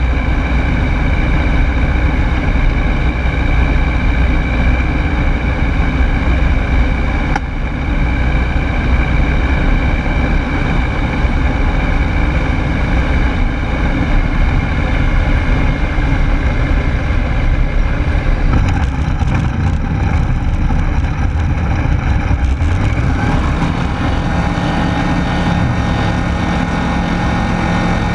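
Rotax 912S flat-four engine and propeller of a Rans Coyote S6 ultralight droning steadily in cruise, heard from the cockpit. Near the end the drone's tone shifts slightly.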